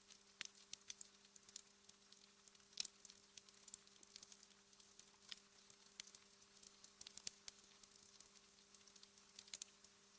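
Wood fire crackling in a fireplace: irregular small snaps and pops, with one louder pop about three seconds in, over a faint steady low hum.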